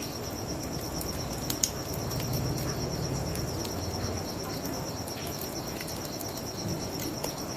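Crickets chirping in a steady, fast-pulsing trill over a low rush of background noise, with the sharp pops and crackles of a wood fire, one louder pop about a second and a half in. A low hum swells for a couple of seconds near the middle.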